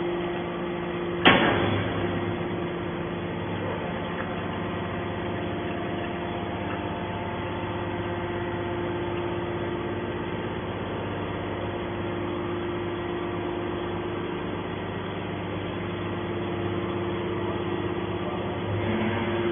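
Y81 hydraulic scrap metal baler running with a steady hum, with one sharp metallic clank about a second in.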